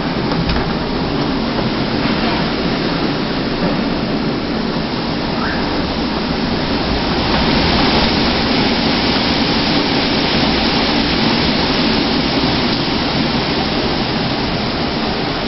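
Typhoon-force wind and heavy rain: a steady, loud rush of noise that swells slightly about halfway through.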